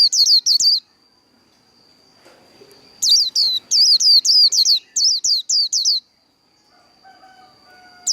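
White-eye (vành khuyên) singing its fast 'líu' song: three bursts of quick, high, downward-sliding notes, about six a second, with pauses of a second or two between bursts. A faint steady high tone sounds in the pauses.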